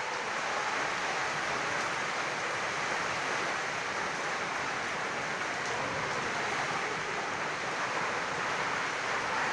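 Heavy rain pouring down steadily, an even hiss with no thunder or other strikes in it.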